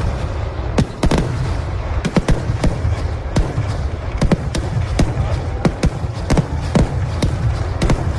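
Kerala temple-festival fireworks (vedikkettu) going off: a run of sharp bangs, irregular and about two a second, over a continuous low rumble.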